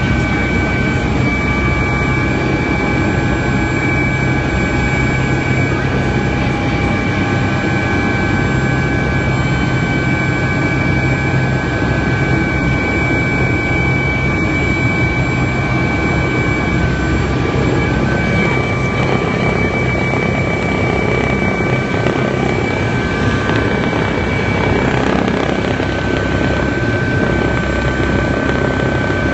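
Helicopter noise heard from inside the cabin in flight: a loud, steady drone of turbine engine and rotor, with a few steady high tones running through it.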